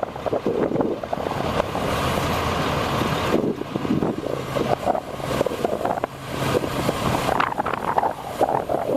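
1997 International 2674 crane truck's diesel engine running steadily, with wind buffeting the microphone.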